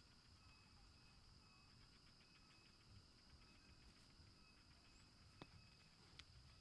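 Near silence with faint outdoor ambience: a steady high insect drone and short repeated chirps, broken by two soft clicks near the end.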